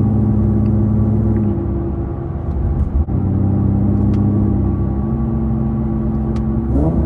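Infiniti G37's V6 with a loud exhaust, running at a steady cruise, heard from inside the car. About a second and a half in the engine note drops back for a second or so, there is a sharp click near three seconds, then the steady exhaust drone returns.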